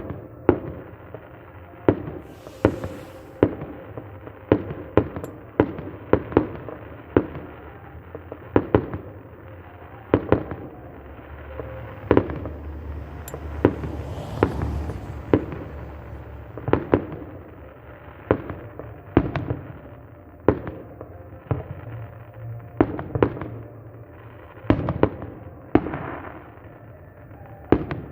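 Fireworks salute: a long, irregular run of sharp bangs from bursting shells, roughly one or two a second, with a crackling hiss about two seconds in and again about halfway through.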